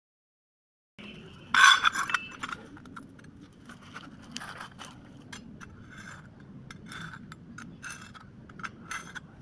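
Metal clinking and scraping: a loud cluster of clinks about a second and a half in, then a run of small, irregular ticks and scrapes.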